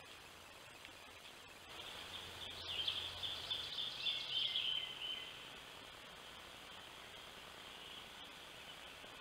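A songbird singing in woodland, a run of high calls lasting about three seconds, then a fainter steady high sound over hiss.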